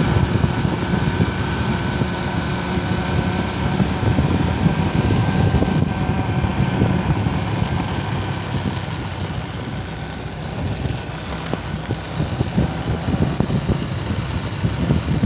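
Steady rumble of a running vehicle in motion, with a few faint steady whining tones over it.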